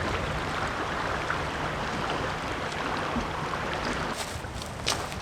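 Sea waves washing against a rocky shore with a light breeze, a steady rushing wash, with a few sharp clicks near the end.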